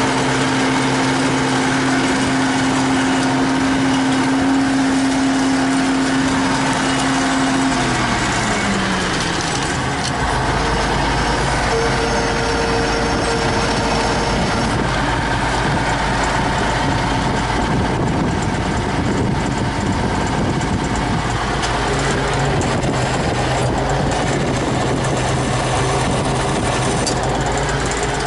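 T-150K tractor's diesel engine running steadily. About eight seconds in its note drops, and a deeper, rougher rumble carries on after that.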